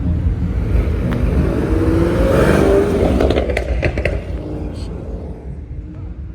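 A car engine revving as it goes by, its pitch rising and its loudness peaking about two and a half seconds in, with a few sharp cracks just after, then fading away.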